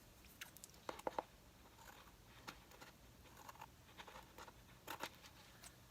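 Faint, scattered rustles and small clicks of paper cutouts being handled and pressed down.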